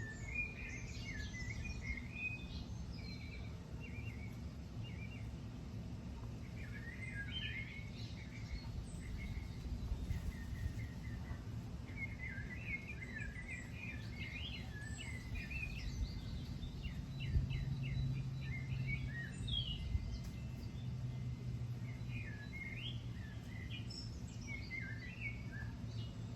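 Songbirds chirping and trilling in short phrases throughout, over a steady low rumble. A low hum swells for a few seconds about two-thirds of the way through.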